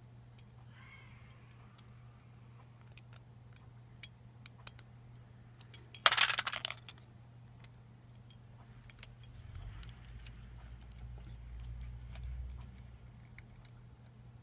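Small parts and tools being handled during disassembly: scattered light clicks and taps, with a short, loud, jangling rattle about six seconds in and a low rumbling handling noise later on, over a steady low hum.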